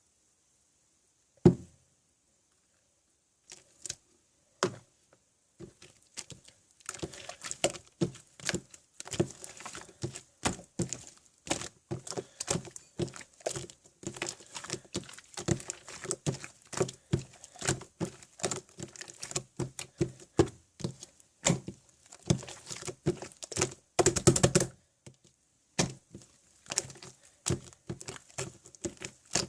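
Slime being squeezed and pressed by hand, giving a run of small sticky clicks and pops. A few isolated clicks at first, then a dense, irregular stream of them from about a quarter of the way in, with one longer squelch near the end.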